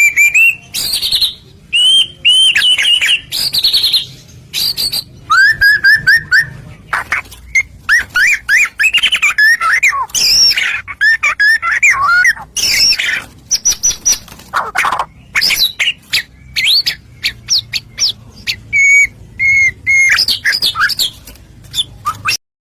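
White-rumped shama (murai batu) in full song: a fast, varied run of loud clear whistles, slurred notes and rapid trills with hardly a pause. This is the 'gacor' song used as a lure to set captive shamas singing. It cuts off suddenly near the end.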